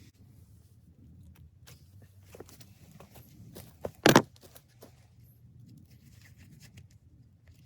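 Scattered light clicks and rustles of material being handled, with one loud sharp knock a little after four seconds in.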